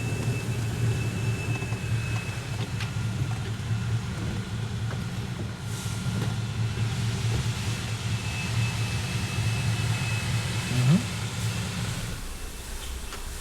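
Rover P5b's 3.5-litre V8 idling steadily while waiting at the car wash. There is a brief rise in pitch about eleven seconds in, and the engine hum drops away about a second later.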